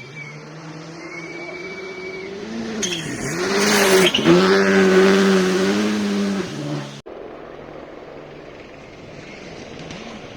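Rally car engine at high revs approaching and passing at full speed, its note dipping and climbing again with lifts and gear changes, loudest from about four to six and a half seconds in. The sound cuts off suddenly about seven seconds in, leaving a quieter steady drone.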